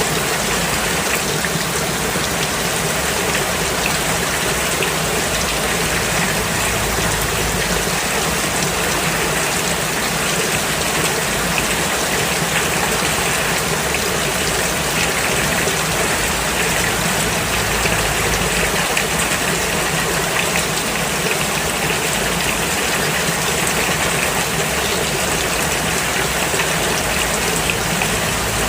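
Steady rain falling: an even hiss of drops that does not let up, with a low rumble underneath.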